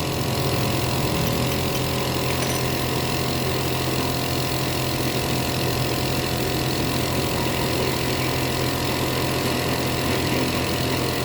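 Honda BR-V's 1.5-litre four-cylinder petrol engine idling steadily.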